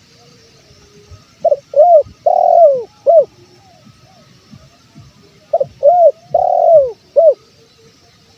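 Spotted dove (tekukur) cooing: two phrases, about four seconds apart, each of four arched coos with the third note drawn out longest.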